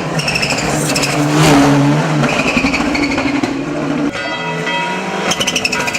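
Mitsubishi Lancer Evolution VI hill-climb car's turbocharged four-cylinder engine running hard at high revs, its pitch shifting in steps, with crackling near the end.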